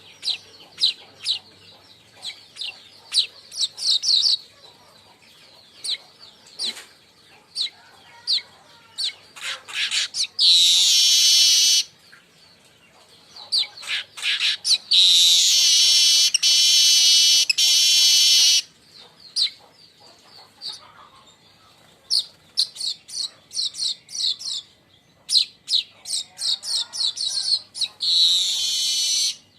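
Weaver birds (manyar) chattering: quick runs of sharp chirps, broken by long buzzy, wheezing notes about ten seconds in, again for several seconds a little later, and once more near the end.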